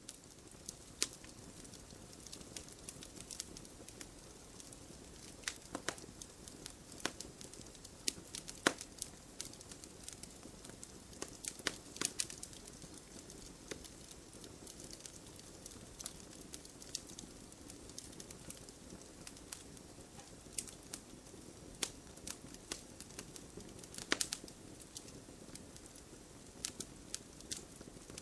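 Wood fire crackling, with irregular sharp pops over a steady low hiss of burning.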